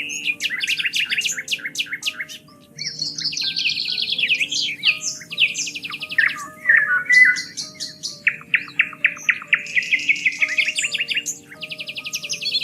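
Songbirds singing in rapid trills and fast runs of repeated chirps, several songs overlapping, over soft background music with long, held low notes.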